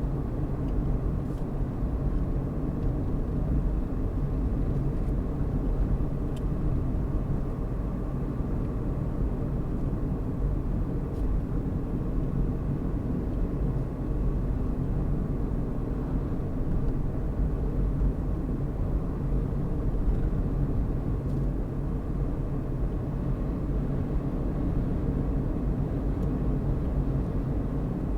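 Car driving at a steady speed: an even low rumble of engine and tyre road noise that holds unchanged throughout.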